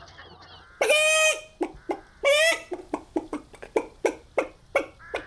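A person imitating a chicken: two drawn-out squawks about a second and a half apart, with a run of short clucks between and after them.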